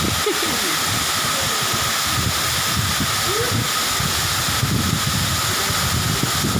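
Waterfall: a steady, even rushing of falling water, with faint voices underneath.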